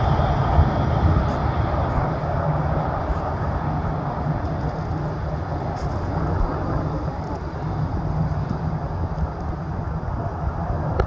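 Jet airliner engine noise: a steady rumble that slowly fades.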